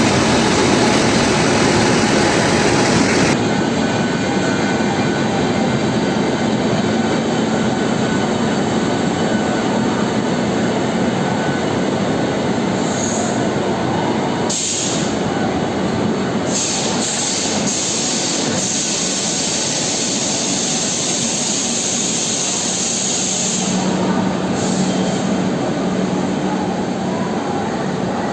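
Train running on the rails: a steady, loud rumbling noise of wheels and carriages on the track.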